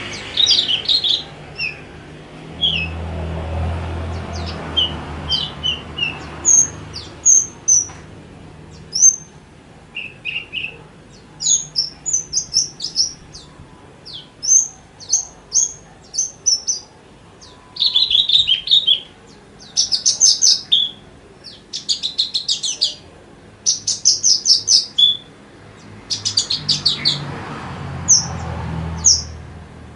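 Javan bush lark (branjangan) singing a varied song of short high chirps and fast trills, with brief pauses between phrases. The trills are densest past the middle.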